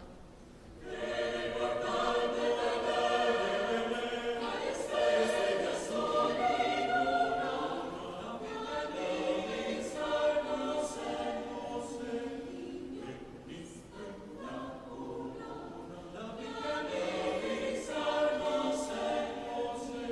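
Vocal ensemble singing a cappella in several parts, coming in about a second in and swelling and easing in phrases.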